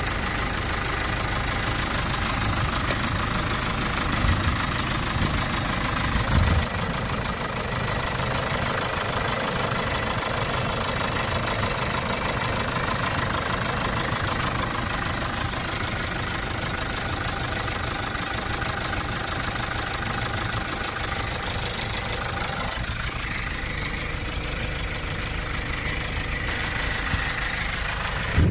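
Kia Bongo III truck's diesel engine idling steadily, with two brief louder knocks about four and six and a half seconds in.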